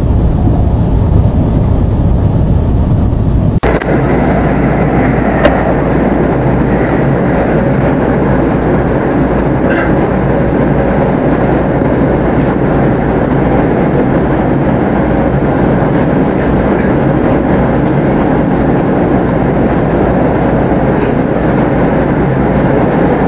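Steady rumble of wheels on rail and running noise heard inside a Class 387 electric train travelling at speed. About four seconds in the sound turns abruptly brighter.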